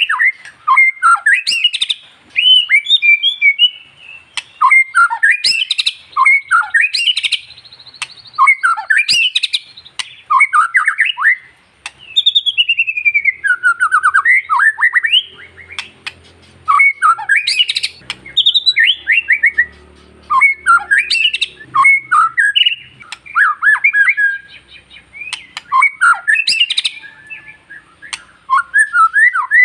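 White-rumped shama (murai batu) singing: loud phrases of fast, sweeping whistled and chattering notes, repeated with short pauses between.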